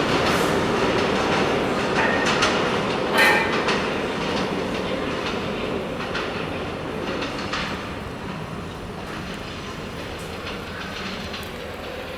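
R160 subway train pulling out of the station, its wheels clattering over rail joints with a louder clack about three seconds in. The sound fades steadily as the train moves away.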